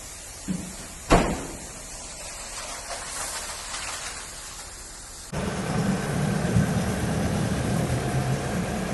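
A single sharp knock about a second in over a steady hiss; at about five seconds a steady low machine rumble begins abruptly.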